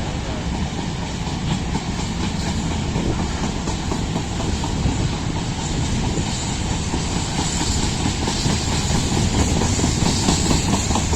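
Empty freight train rolling past, a steady rumble with its wheels clattering over the rails, growing a little louder near the end.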